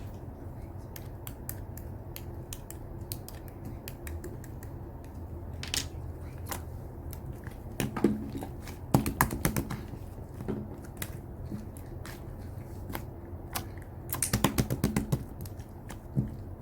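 Slime being squished and poked by hand, giving irregular sticky clicks and pops, with quick runs of clicks about halfway through and again near the end.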